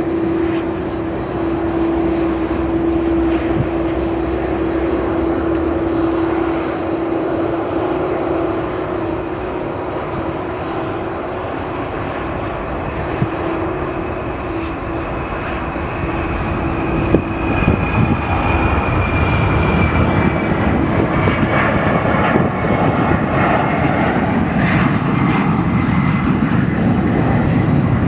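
Boeing C-17 Globemaster III's four Pratt & Whitney F117 turbofans at takeoff power, a steady jet roar with a held whine. The sound grows louder and fuller about two-thirds of the way in, as a high tone slowly drops in pitch.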